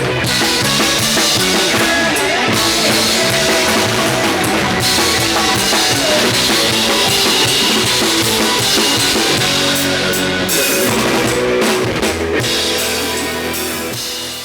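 Live band playing Isan-style music: drum kit with bass drum, guitar and bass guitar, fading out near the end.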